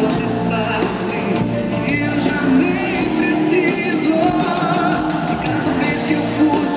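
Live pop music from a band, with a singer's voice carrying the melody over the accompaniment.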